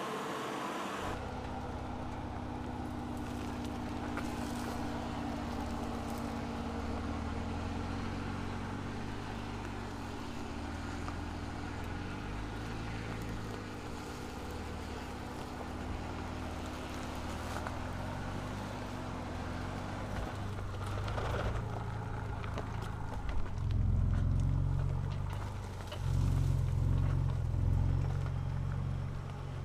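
2023 Ford Ranger Raptor's 3.0-litre V6 petrol engine and exhaust running while driving off road, with road and tyre noise; the engine grows louder in two surges after about 23 seconds, as under acceleration.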